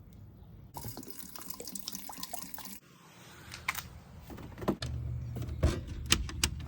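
Water running and splashing, with scattered clicks and knocks, breaking off briefly about three seconds in.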